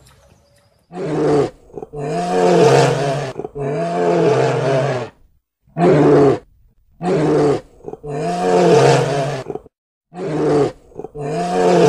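Giant panda calling: a series of about eight drawn-out, pitched calls with arching pitch, each up to about a second and a half long, separated by short pauses. The calls begin about a second in.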